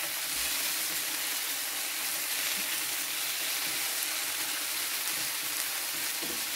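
Sliced okra frying in oil in a non-stick pan, a steady sizzle, while a silicone spatula stirs and tosses it.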